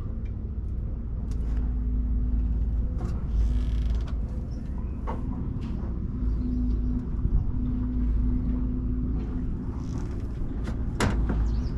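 Digger's diesel engine running steadily, a low rumble with a constant hum, with a few short clicks and creaks over it.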